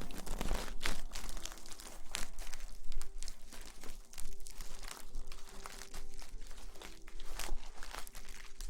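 Close-miked ASMR rustling: a dense, uneven run of crinkling crackles and scrapes.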